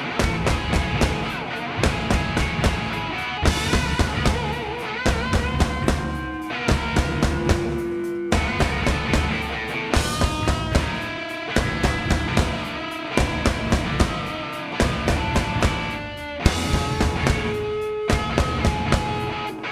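Live rock band playing an instrumental passage: a drum kit keeps a steady driving beat under electric guitar and bass, with a lead guitar line of held and bent notes.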